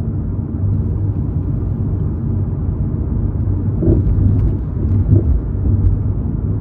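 Steady car cabin noise while driving on a snow-covered road: low engine and tyre rumble, with faint small clicks here and there.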